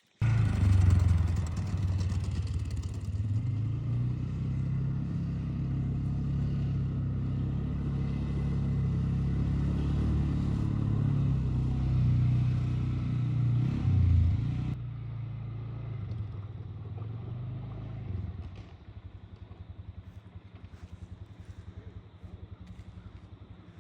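Four-wheeler (ATV) engine running under way, its pitch shifting slightly with speed and swelling briefly near the middle. It then eases off and settles to a quieter, even putter like an idle for the last few seconds.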